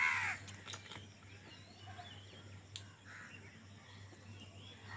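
A crow gives one harsh caw falling in pitch at the start, followed by faint, scattered chirps of other birds over a low steady hum.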